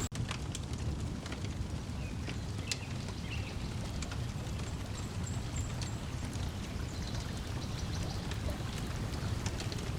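Wood fire crackling with scattered sharp pops, over a steady low wash of lake water lapping and breeze. A few faint bird chirps come through near the start and again around the middle. The sound cuts out very briefly right at the start.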